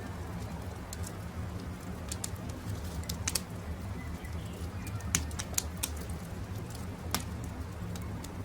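Campfire crackling, with irregular sharp pops over a steady low rumble; the loudest pops come about a third of the way in and near the middle. Faint bird calls come and go in the background.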